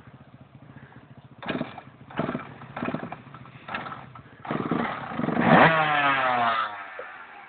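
Enduro motorcycle engine revving in short throttle blips, then a longer, louder rev about halfway through whose pitch falls away as it winds down.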